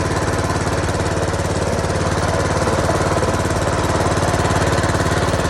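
Small 5.5-horsepower engine driving an inflatable boat, running steadily with an even, fast firing beat.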